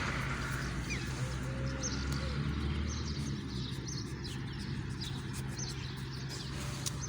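Small birds chirping repeatedly, in short scattered calls, over a steady low hum.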